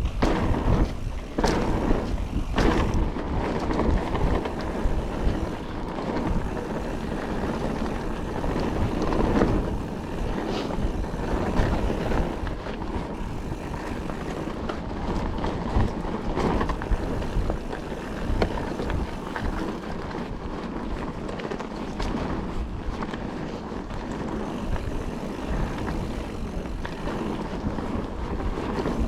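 Calibre Triple B mountain bike riding over a dry, loose trail: tyres rolling over dirt and stones, with frequent rattles and knocks as it goes over bumps. Wind buffets the microphone throughout.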